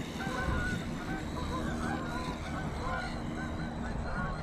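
A flock of geese honking: many short, overlapping honks in quick succession, over a low rumble.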